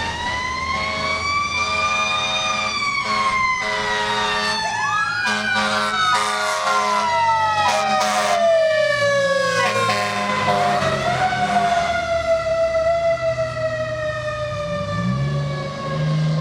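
Fire engine sirens wailing, several tones overlapping: one rises, then winds slowly down over several seconds while others rise and fall, with pulsed steady-pitched blasts through the first ten seconds. A diesel engine revs up near the end.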